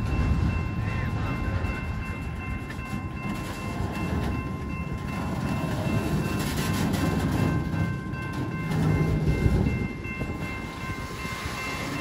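Freight train of autorack cars rolling past close by: a steady low rumble of steel wheels on the rail, swelling and easing, with a faint steady high-pitched ringing over it.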